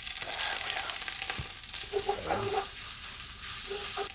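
Onions and grated garlic frying in hot oil in a pot, a steady sizzle.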